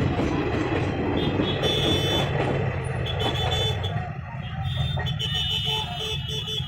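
Road vehicle engines running with a steady low rumble, with short high-pitched horn toots coming and going from about a second in.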